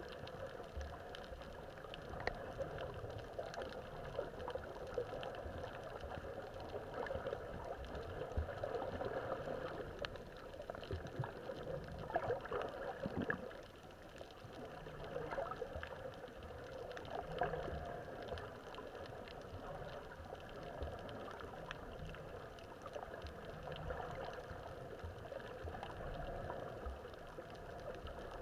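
Underwater bubbling and gurgling with faint scattered crackling, swelling and fading every few seconds.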